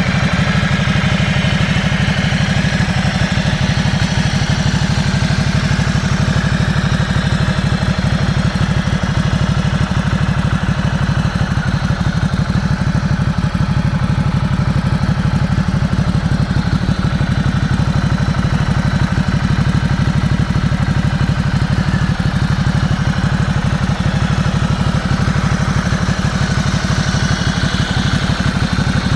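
Motorcycle engine idling steadily, with an even, rapid pulse and no revving.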